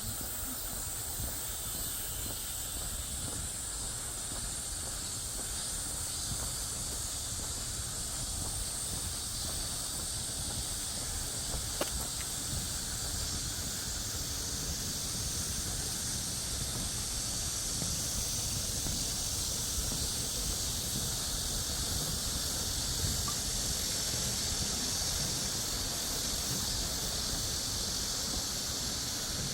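Chorus of cicadas droning steadily in summer woodland, a continuous high-pitched hiss, over a low rumble.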